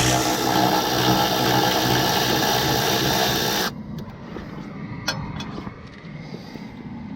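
A loud, steady mechanical running noise with a low hum cuts off abruptly a little under four seconds in. A quieter background follows, with one sharp click about five seconds in.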